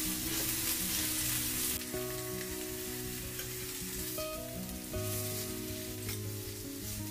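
Dried fish fillets sizzling in a hot stainless steel tray on an induction hob while being turned with metal tongs. Soft background music with held notes plays underneath.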